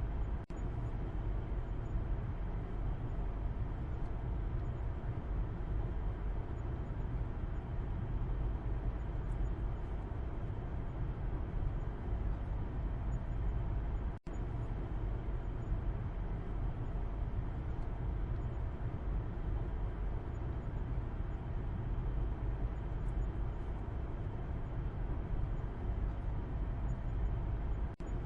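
Car interior heard from the back seat while driving: a steady low rumble of road and engine noise. The sound cuts out for an instant twice, just after the start and about halfway through.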